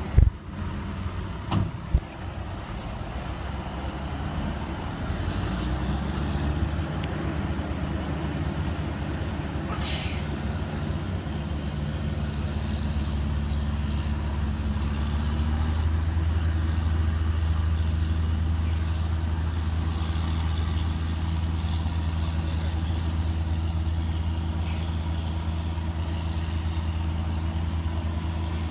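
Heavy tractor's diesel engine running steadily, its pitch stepping a few times and growing louder over the first half. A few sharp knocks come near the start, and a short hiss about ten seconds in.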